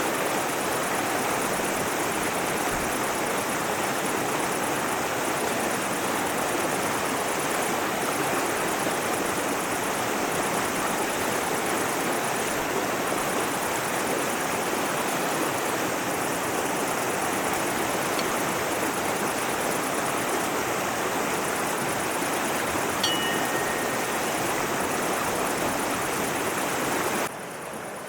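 Mountain river rushing over rocks, a steady, dense roar of flowing water. A single short high chirp sounds late on, and the water drops abruptly quieter near the end.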